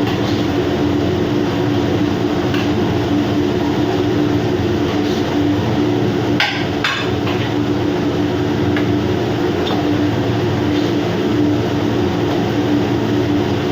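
Steady machinery drone with a constant low hum, unchanging in level, and a couple of brief sharp clinks about six and a half seconds in.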